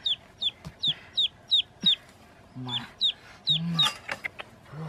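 A bird peeping over and over: short high notes that slide downward, about three a second, pausing briefly in the middle. A few short low notes sound under it, and a patch of rustling and sharp knocks comes a little before the end.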